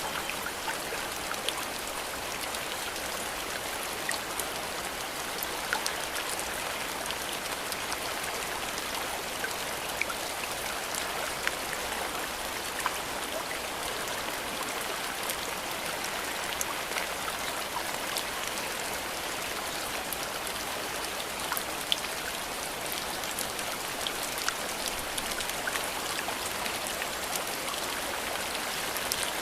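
Steady rain falling in a bamboo grove: an even hiss with many sharp, close drop ticks scattered through it.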